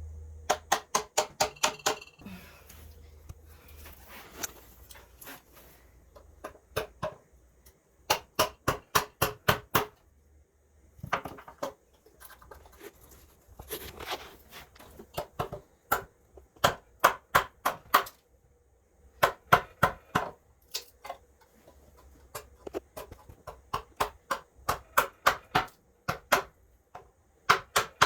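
A chisel struck in quick runs of sharp blows, about five a second, cutting chips out of a block of wood, with short pauses between the runs.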